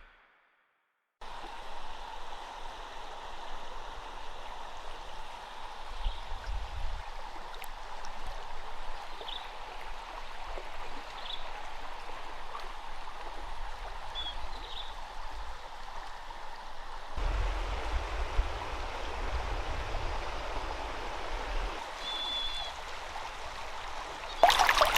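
A stream of water flowing steadily, with a few brief high chirps over it.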